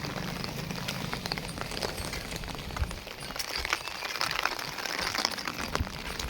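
Heavy monsoon rain falling steadily, with many close drops striking sharply.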